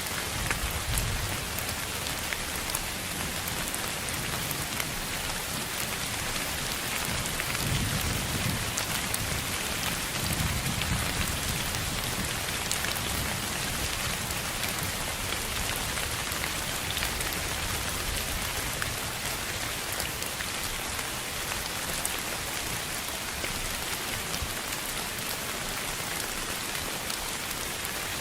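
Steady rain: a dense hiss with scattered drop ticks, and low rumbles swelling about a second in and again around eight to eleven seconds in.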